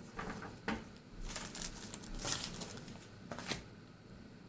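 Paper and sticker packaging being handled and rustling, in several short bursts over the first three and a half seconds, then quieter.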